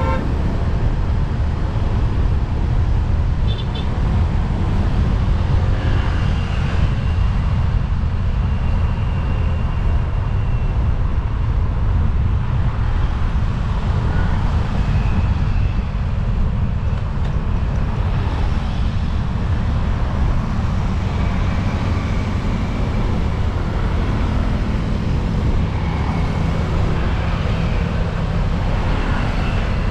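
Road traffic running steadily, a continuous loud low rumble of engines and tyres, with a few faint brief higher tones.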